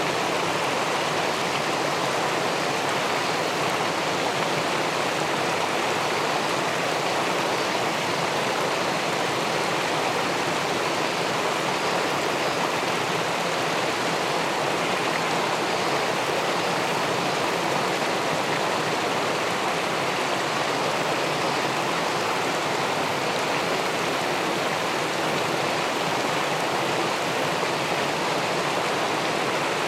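Steady rushing of river water tumbling over a weir into the pool below, heard through a submerged camera.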